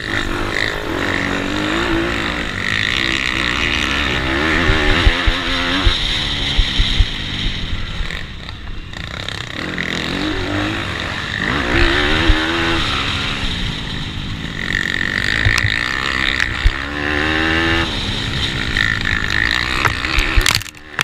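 Racing pitbike engines revving hard, the pitch climbing and falling again and again through the corners, over a rushing noise. The sound drops away sharply near the end.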